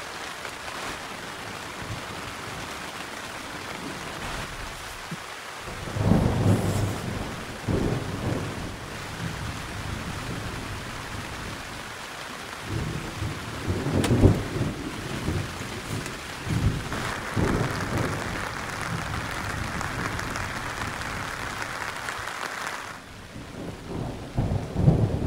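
Rain falling steadily on a tent, with several low rolls of thunder, the loudest about 14 seconds in.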